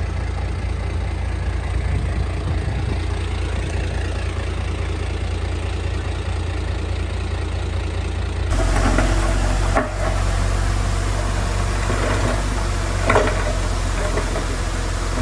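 Diesel engine of heavy earthmoving machinery running steadily with a low rumble. About halfway through the sound shifts abruptly to a louder, rougher running with a few sharp metallic knocks.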